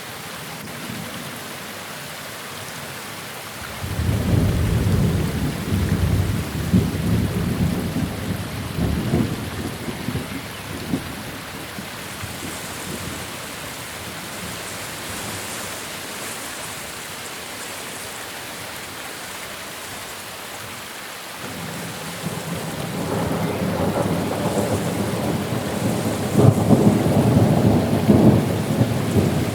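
Steady rain with two rolls of thunder. The first breaks about four seconds in and dies away over several seconds; the second builds from about two-thirds of the way through and is loudest near the end.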